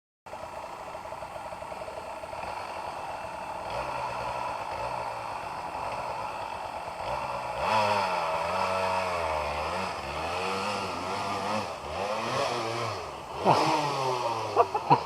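Off-road motorcycle engine working hard, the revs rising and falling repeatedly as the throttle is worked, with clattering knocks near the end.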